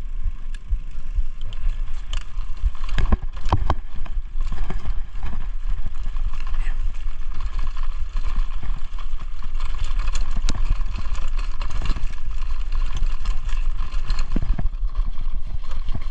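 Mountain bike being ridden over a rough trail, picked up by a chest-mounted GoPro: a steady rumble of wind on the microphone, with tyre noise and frequent knocks and rattles from the bike over bumps.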